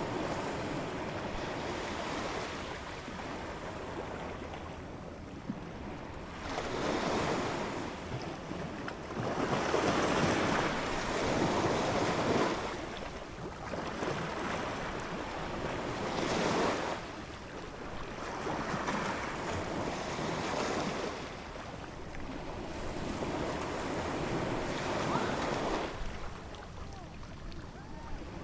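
Ocean waves breaking and washing in, the surf swelling and fading every few seconds.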